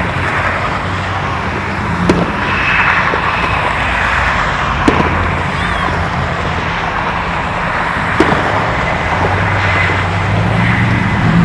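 Steady road traffic and car engine noise, with three sharp distant firework bangs a few seconds apart.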